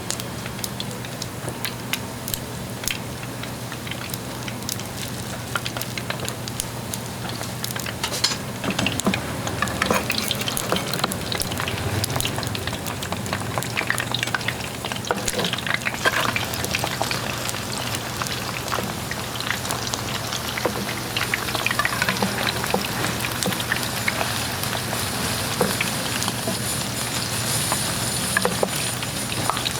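Fish cakes frying in hot oil: a dense sizzle of many small crackling pops that grows busier about eight seconds in, over a steady low hum.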